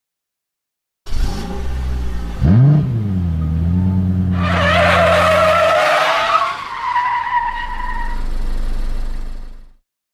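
Car engine starting about a second in, revving up and down, then running steadily; from about four seconds in, tyres squeal in a long skid that fades out near the end.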